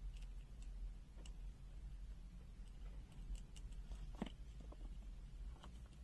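Faint scattered clicks, with a slightly louder small knock about four seconds in, over a steady low hum.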